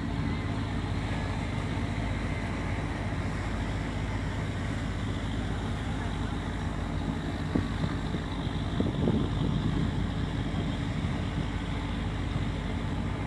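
Fishing vessel's diesel engine running steadily, a constant low hum.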